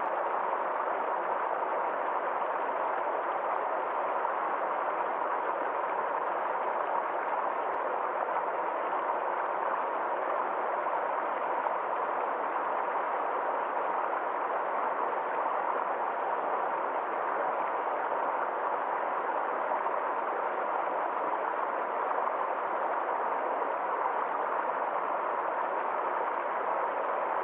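Forest stream flowing over rocks in a small waterfall: a steady, even rush of water that does not change.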